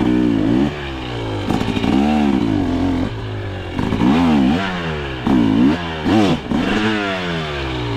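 Two-stroke engine of a KTM 300 XC dirt bike revving up and down in repeated throttle blips, its pitch rising and falling about seven times.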